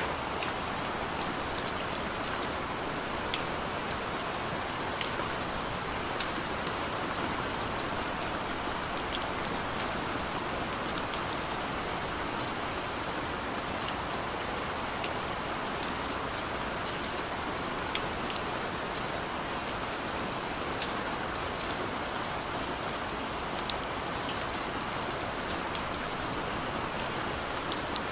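Steady rain falling, a constant hiss with scattered sharp drops ticking on a hard surface.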